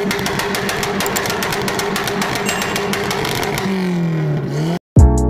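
A car engine revving, its pitch rising and falling over a rushing noise with rapid crackle, cutting off abruptly near the end. Music with a heavy beat starts right after.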